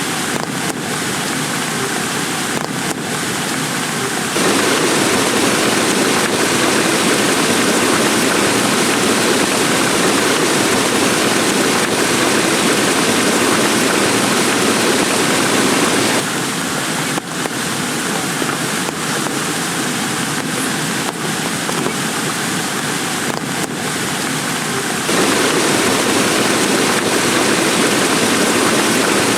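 Heavy rain falling as a dense, steady hiss, with a few sharp drop hits. Its level steps abruptly up or down a few times.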